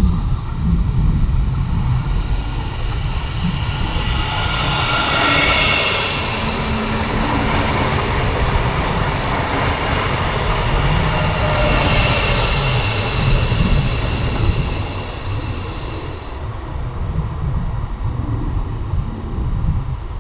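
A train running past on the mainline: continuous wheel-on-rail rumble with a brighter hissing rail noise that swells twice, around five and twelve seconds in, then eases off.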